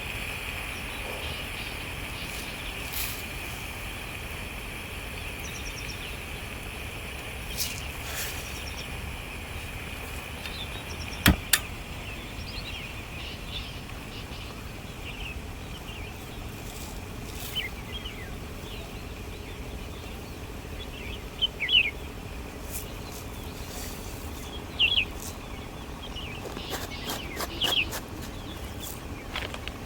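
Outdoor forest ambience with birds chirping in short calls through the second half. A steady high drone fades out after the first third. A few sharp clicks and knocks stand out, the loudest a quick pair about eleven seconds in.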